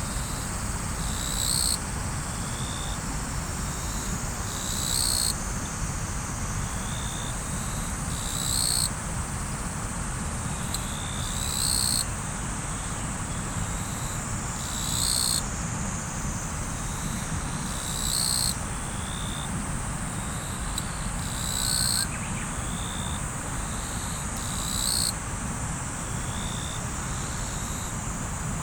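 Steady rush of river water under a continuous high insect chorus. One insect gives a high, buzzy pulse about half a second long, repeating roughly every three and a half seconds.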